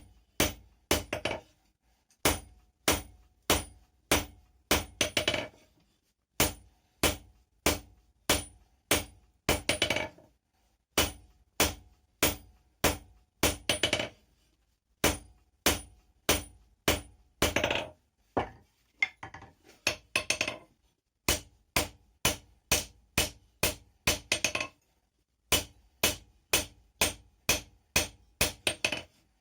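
Blacksmith's hand hammer forging a piece of rebar on an anvil: sharp, ringing blows at about two to three a second, in runs broken by short pauses.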